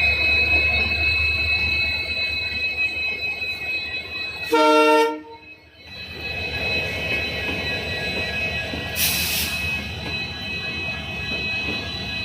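Diesel-hauled passenger train pulling away: a WDG3G diesel locomotive and its coaches rumbling, with a steady high-pitched whine over it. A short horn blast comes about four and a half seconds in, and a brief hiss follows near nine seconds.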